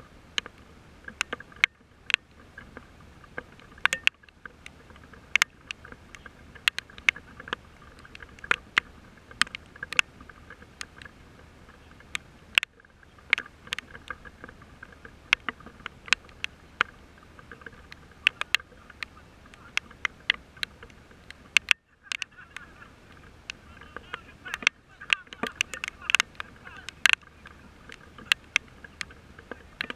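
Raindrops striking close to the microphone as sharp, irregular taps, several a second, over a faint steady background.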